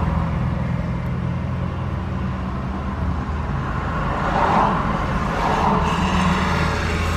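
A truck engine running steadily with a low hum, swelling briefly twice in the second half.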